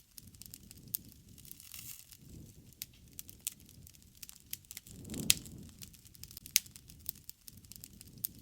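Wood fire crackling, with irregular sharp pops over a low rumble and one louder pop about five seconds in.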